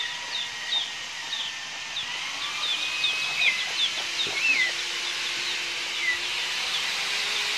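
Small birds chirping: quick high chirps, two or three a second, with a few longer whistled notes in the middle, over a steady hiss of outdoor background noise.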